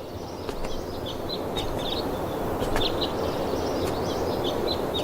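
Outdoor ambience: small birds chirping in short repeated calls over a steady rushing background noise that slowly grows a little louder.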